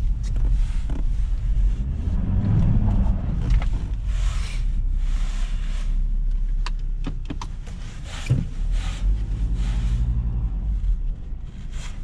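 Ford Ranger pickup truck's engine pulling hard under acceleration, heard from the cabin, with its pitch swelling twice. Rushes of road and tyre noise and a few short knocks come over the rumble.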